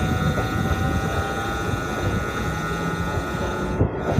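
Electric multiple-unit suburban train running at speed, heard from its open doorway: a steady rumble of wheels on rail.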